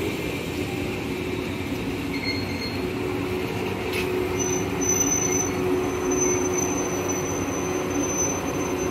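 JR 115 series electric multiple unit moving slowly past the platform: a steady running rumble with a low hum under it. There is one sharp clack about four seconds in, and a thin, high wheel squeal sets in soon after and holds.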